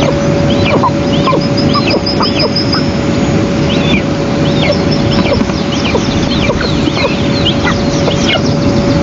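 Eastern imperial eagle chicks begging for food: a steady series of short, high chirping calls, some falling in pitch, repeated roughly twice a second. A dense steady rushing noise and a constant hum lie underneath.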